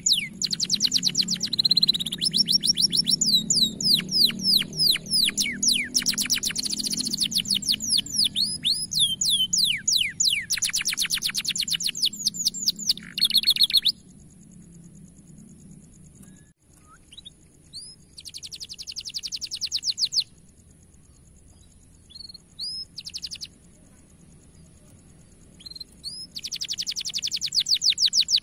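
Domestic canary singing: fast, loud trills of rapidly repeated sweeping high notes. The song breaks off about halfway through, leaving a few scattered chirps and short trills, then comes back in full near the end.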